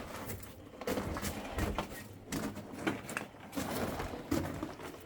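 Irregular scuffs, knocks and rustling of people moving over rock and handling gear.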